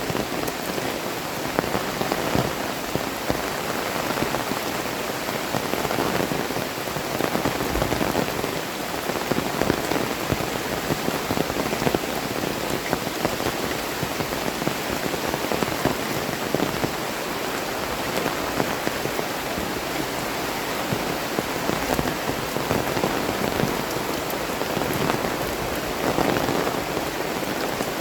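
Heavy tropical rain falling steadily: a dense, even hiss of downpour with countless drops pattering on surfaces.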